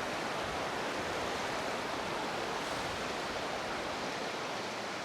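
Steady wash of surf on a sandy beach: an even hiss with no single wave standing out.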